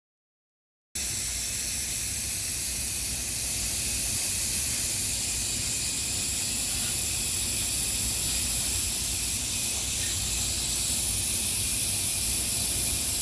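A steady hiss that cuts in abruptly about a second in and stops just as abruptly at the end.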